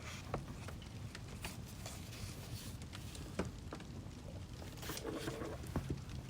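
Wood fire crackling: irregular sharp pops and snaps over a steady low rumble of the burning logs, with the loudest snaps about a third of a second in and about three and a half seconds in.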